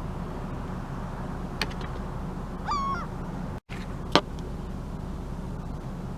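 A gull gives one short call about halfway through, over a steady low rumble. A faint click comes before the call, and a sharp, louder click comes about four seconds in, just after the sound briefly cuts out.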